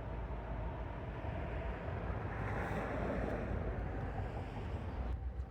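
Outdoor ambience of wind buffeting the microphone over a low rumble, swelling about halfway through and changing abruptly near the end.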